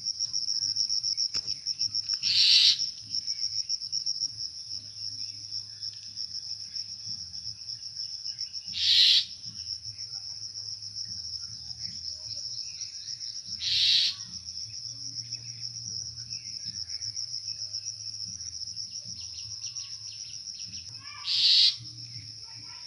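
A steady, high-pitched insect trill, with four short harsh bird calls at intervals of about five to seven seconds.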